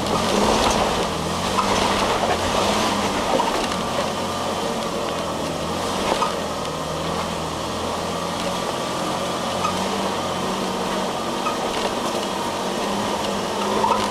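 4WD engine pulling steadily at low revs as the vehicle crawls up a rocky track, heard from inside the cabin, with a few knocks from the tyres and body on the rocks.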